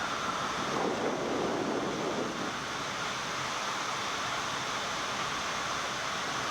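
Steady rushing airflow and engine noise inside a Boeing 787 flight deck on final approach, with the landing gear down and flaps 20.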